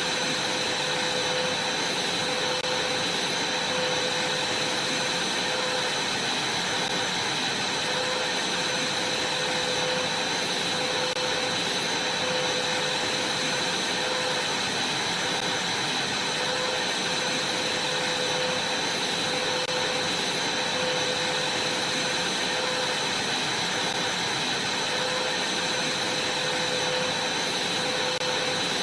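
Vacuum cleaner running steadily: a constant rush of air with a steady high whine.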